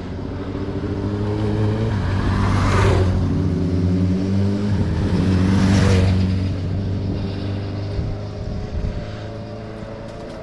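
Small motorbike engine labouring in first gear up a steep bank, its note rising a little under strain and then easing. Two louder rushes of noise swell up about three seconds apart.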